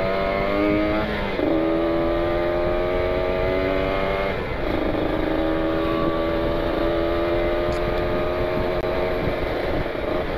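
Kawasaki Ninja 150 RR's two-stroke single-cylinder engine pulling under way: the pitch climbs, then drops abruptly about a second and a half in and again about four and a half seconds in as it shifts gear, and holds fairly steady after that.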